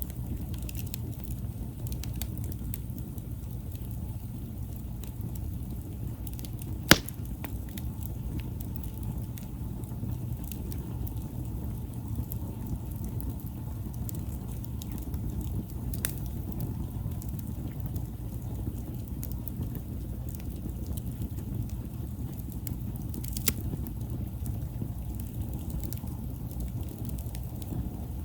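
Wood campfire burning over a steady low rush, with scattered small crackles and one sharp loud pop about seven seconds in.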